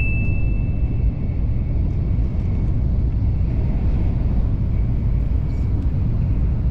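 Shinkansen bullet train in motion: a steady low rumble with a rush of noise above it, cutting off suddenly at the end.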